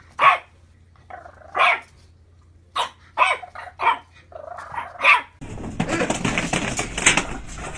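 A dog barking, about six short, separate barks spaced a second or so apart. About five and a half seconds in the sound cuts to a louder, steady noisy background with quick clicks.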